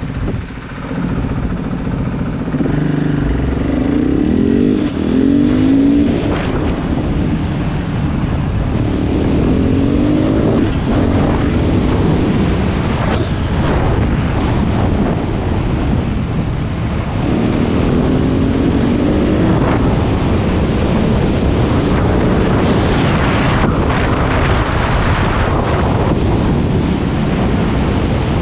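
KTM 500 EXC's single-cylinder four-stroke engine pulling under way, its pitch rising through several accelerations, with heavy wind rush on the microphone.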